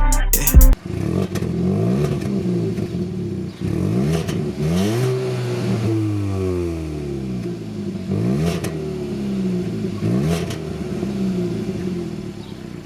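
A car engine revving and accelerating, its pitch rising and falling several times. Loud music cuts off in the first second.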